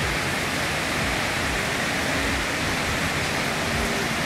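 Heavy downpour of rain mixed with hail, a steady, even rushing hiss with no let-up.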